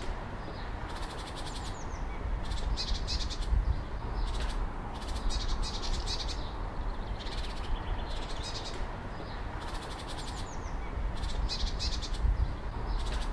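Birdsong: short, high, rattling trills repeated about once a second over a steady low rumble of outdoor background noise.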